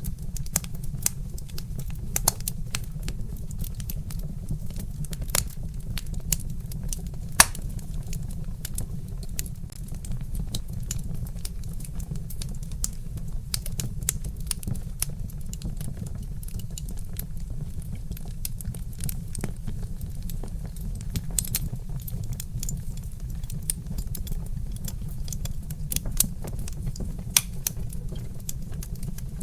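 Wood fire with burning logs crackling in irregular sharp pops over a steady low rumble, with a louder crack about seven and a half seconds in.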